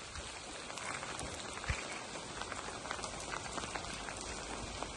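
Steady rain carrying volcanic ash from Etna falling: a dense patter of many small drops landing.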